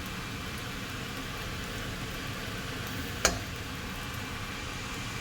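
Fried rice and vegetables sizzling steadily in a pan, with one sharp clank of a spatula against the pan a little over three seconds in.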